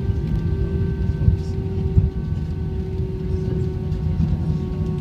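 Cabin noise inside an Airbus A321 with IAE V2500 engines rolling on the ground after landing: a steady low rumble from the wheels and airframe under a steady engine hum, with two short bumps about a second and two seconds in.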